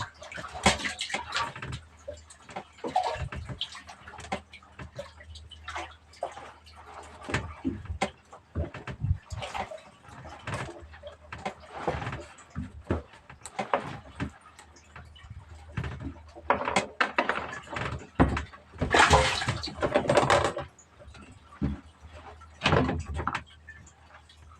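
Water splashing and sloshing, with irregular knocks and clatter, and a longer, louder rush of splashing about two-thirds of the way in.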